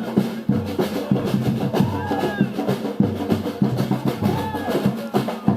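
Samba percussion band playing a steady, driving rhythm on bass drums and snare drums. A pitched sound rises and falls over the drumming twice.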